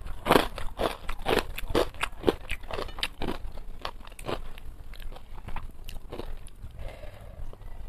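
A person chewing a mouthful of rice and fried food close to the microphone, with quick crunchy mouth clicks about three a second that thin out and grow quieter over the second half.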